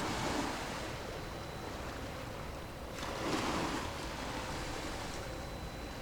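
Sea waves washing in twice, about three seconds apart, over a steady low rumble.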